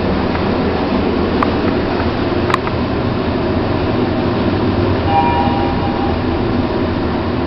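Mitsubishi passenger lift car travelling down its shaft: a steady rumble and rush of air inside the car. There are two sharp clicks about one and a half and two and a half seconds in, and a short beep tone about five seconds in.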